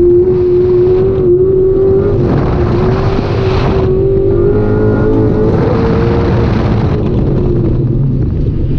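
Ford Mustang autocross car's engine running hard at speed, heard from inside the cabin, its pitch holding high, then dipping briefly about a second in, stepping up around four and a half seconds and easing off after six and a half. Two stretches of rushing noise join it, about two and five and a half seconds in.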